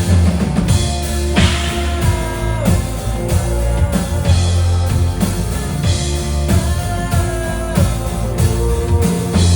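Rock band playing an instrumental passage with no vocals: electric guitar, bass and drum kit.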